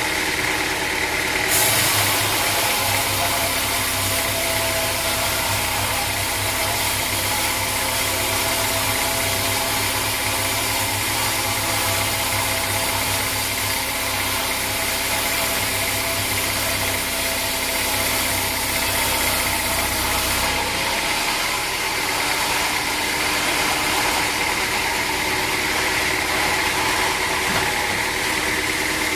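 Sawmill machinery running steadily, with a harsher hissing sound and a heavier low hum joining about two seconds in and stopping about twenty seconds in.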